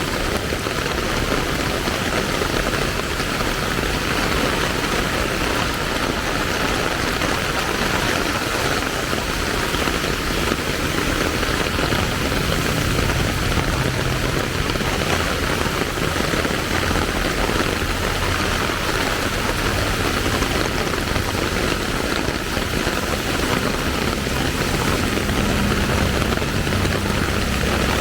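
Steady hiss of falling rain, with the low hum of vehicle engines coming and going underneath, stronger about halfway through and near the end.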